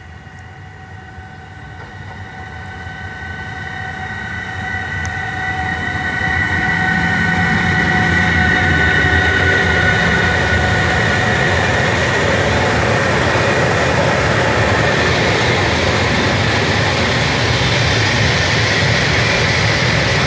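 A Newag Dragon six-axle electric locomotive hauling tank wagons approaches and passes. Its sound swells over the first six seconds, with a high steady whine of several tones, then gives way to the steady rolling noise of the tank wagons running by.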